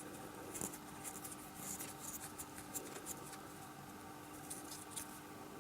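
Faint, irregular scratchy clicks of a small M4 brass pin being screwed by hand into a threaded hole, the glued threads rasping as it turns.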